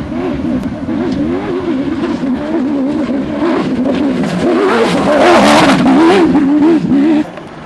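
Off-road trophy truck engine racing past, its revs rising and falling rapidly as it goes over rough ground, growing louder to a peak about five to six seconds in. The sound cuts off abruptly near the end.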